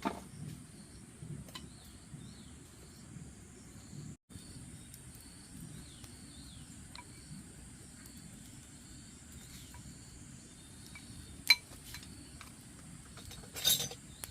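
Steady high insect chirring in the background, with scattered light clicks, a sharp click about eleven and a half seconds in and a brief louder noisy burst near the end.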